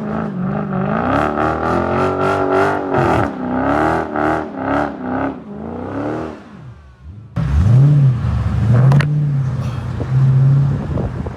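Mopar car engine revving hard, its pitch rising and falling over and over, then dying away about six seconds in. After a short dip, an engine note starts suddenly, sweeps up and holds steady.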